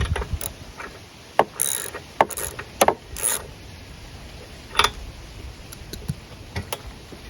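Scattered sharp clicks and short metallic scrapes of hand tools and parts being handled as the spark plug is refitted to a Briggs & Stratton flathead mower engine; the engine is not running.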